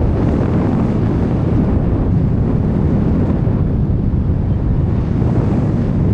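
Loud, steady wind rushing over the microphone in flight on a tandem paraglider, a low rumbling noise that doesn't let up.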